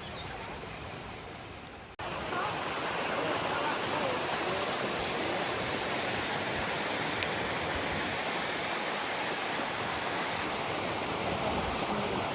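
Flowing water, quiet at first, then a sudden jump about two seconds in to a loud, steady rush of a river and waterfall.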